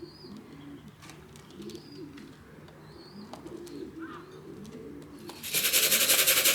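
Pigeons cooing softly and repeatedly. About five and a half seconds in, a loud, fast rattle starts up: grain being shaken in a feed tin to call the young pigeons back to the loft.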